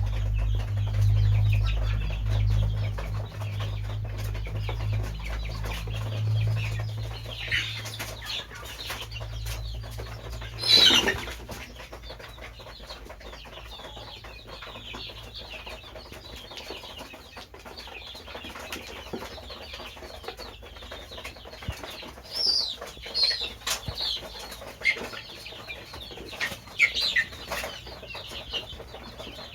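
Chickens clucking and calling, with short high calls in the second half. There is a low rumble in the first several seconds and a brief loud burst of noise about eleven seconds in.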